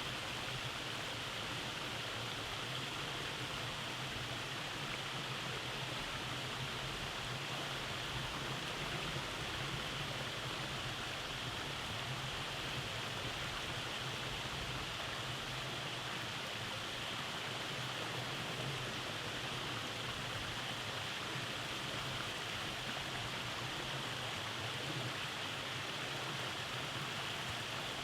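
Rainforest stream running over small cascades: a steady, even rush of flowing water.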